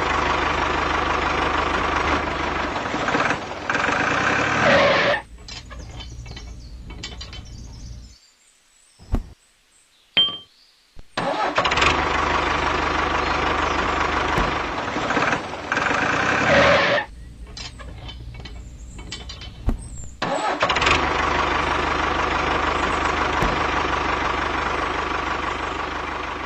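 Tractor engine sound running steadily in three stretches of about five seconds each, dropping to a quieter background between them and cutting out almost completely for a few seconds in the middle.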